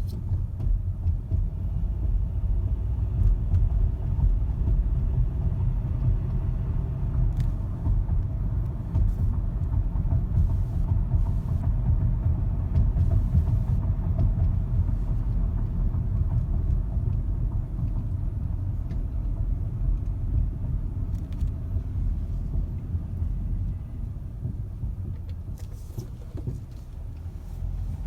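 Low, steady road and tyre rumble of a 2012 Ford Fusion 2.5L driving slowly over rough pavement, with a few faint short knocks. The soft clunk on bumps comes from a worn front passenger-side lower ball joint.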